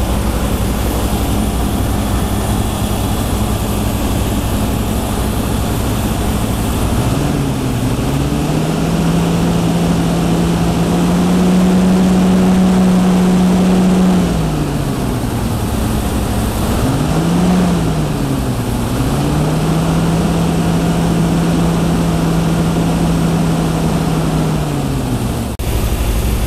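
1973 Range Rover's 3.5-litre V8 idling, then revved and held at raised revs twice for several seconds each, with a quick blip in between, before dropping back to idle. It is being revved to check for combustion gas in the cooling system of the overheating engine, which the mechanics take as very likely a failed head gasket or cooling channel.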